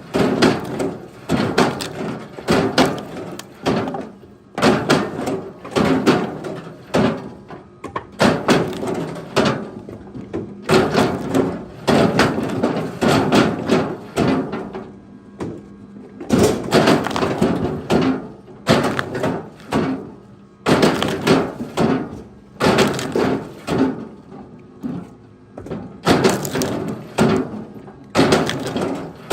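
Firewood logs knocking and thudding against each other in repeated clusters, roughly one a second, as the wood is handled and thrown, with a steady low hum underneath.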